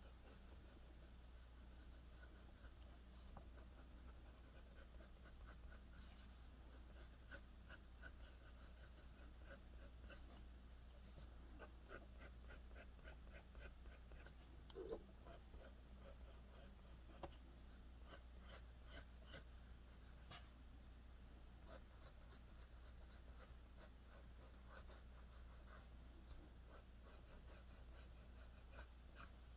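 Faint pencil strokes on paper: quick, short scratching strokes, several a second, laying in strands of hair.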